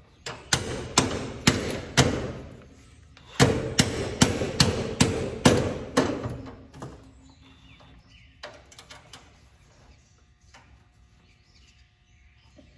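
Hammer blows on metal in two quick runs, about two to three a second, each blow ringing briefly, then a few lighter knocks a couple of seconds later.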